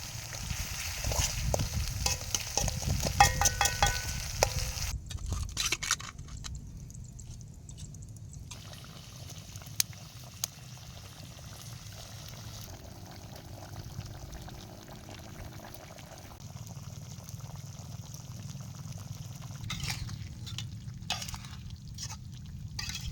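Balado chili sauce sizzling in a pan as it is stir-fried, with utensil clicks and scraping over the first five seconds or so. After that comes a quieter, steady sizzle with an occasional click.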